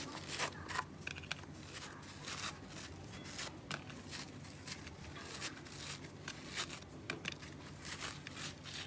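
Slime being squeezed and stretched by hand, with quiet, irregular sticky clicks and crackles.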